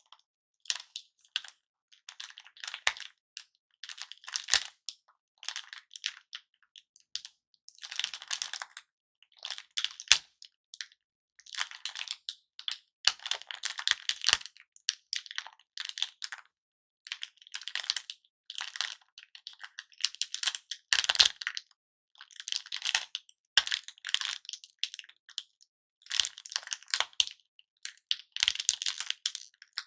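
Hard-candy lollipops being handled, giving irregular bursts of crisp crackling and clicking with short pauses between them.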